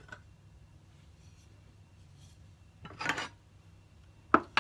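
Cookware being handled on a kitchen counter: a brief scraping clatter about three seconds in and a sharp clack near the end, over a steady low hum.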